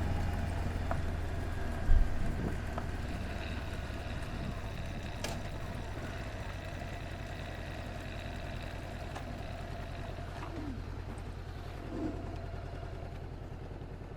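Honda CB500X's parallel-twin engine running steadily at low revs, with a low, even hum.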